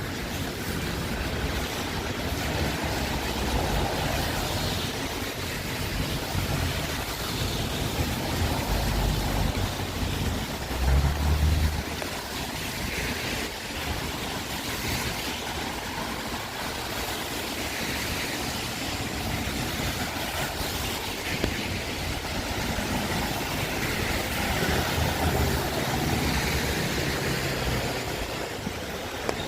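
Wind gusting against the microphone as a low, uneven rumble over a steady hiss of rain and wet street; the strongest gust comes about eleven seconds in.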